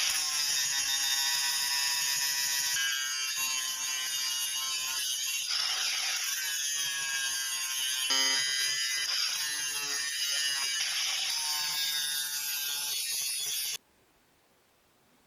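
Angle grinder grinding or cutting steel: a steady high whine and hiss with pitched squealing that shifts as the disc is loaded. It cuts off suddenly near the end.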